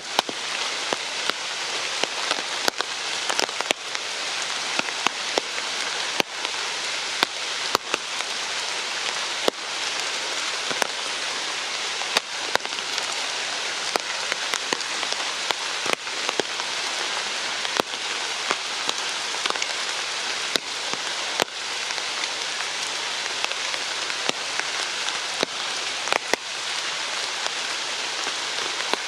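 Steady rain falling, with frequent sharp taps of large drops landing close by.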